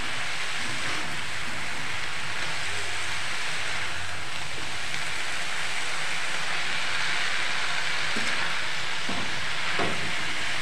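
Fenugreek leaves and potatoes frying in oil in a kadhai, a steady sizzle while a metal spoon stirs them slowly, with a few faint scrapes near the end.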